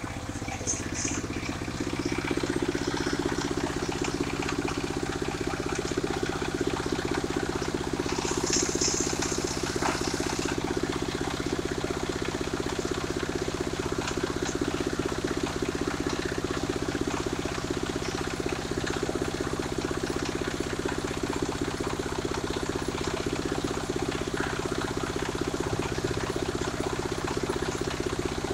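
Engine of a portable circular sawmill running steadily, picking up speed about two seconds in and holding there, with a brief higher hiss about eight seconds in.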